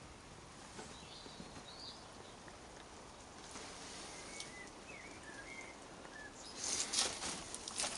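Faint, brief chirps of small birds, a few scattered calls. Then, about two-thirds of the way through, louder rustling and crackling sets in.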